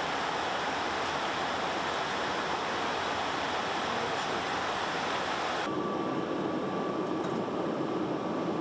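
Steady rushing jet aircraft noise. About six seconds in it cuts to a duller, lower rumble with a thin steady hum running through it.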